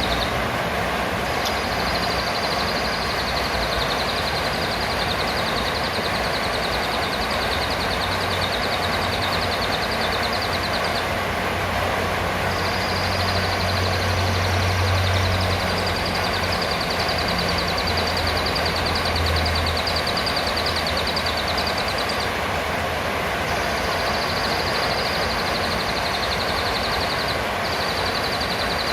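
Serindit (blue-crowned hanging parrot) calling in long, rapid, high trills lasting several seconds each, with short breaks, over a steady loud hiss of background noise.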